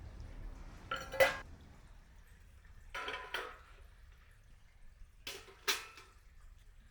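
Metal gear being handled: three pairs of sharp clinks with a short ring, about two seconds apart, the first pair the loudest.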